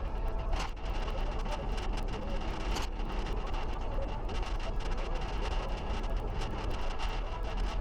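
Motorcycle trailer being towed down the road, heard from a GoPro riding on the trailer: a steady low road-and-wind rumble with frequent small rattles and knocks.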